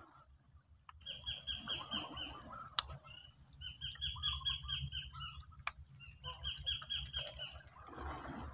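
A bird calling in three bouts of rapid, evenly repeated high chirping notes.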